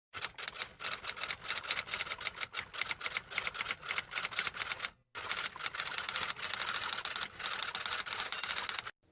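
Rapid, irregular typing clicks, like keys being struck on a typewriter. They pause briefly about five seconds in, then carry on and stop shortly before the end.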